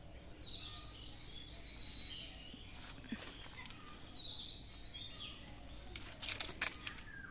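A bird singing a high chirping phrase that repeats about four seconds later, with a cluster of sharp clicks near the end.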